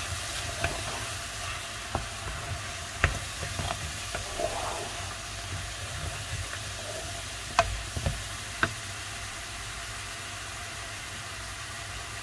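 Chicken pieces and shallots sizzling in a frying pan, with a steady hiss, while a wooden spatula stirs them, knocking and scraping against the pan in a few sharp clicks. The knocks stop after about 9 seconds and the sizzle carries on.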